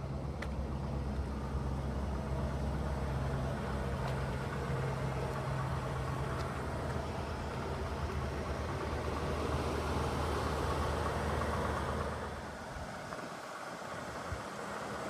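1977 Cadillac Eldorado Biarritz's V8 idling steadily. The low engine note falls away about twelve seconds in, leaving a softer hiss.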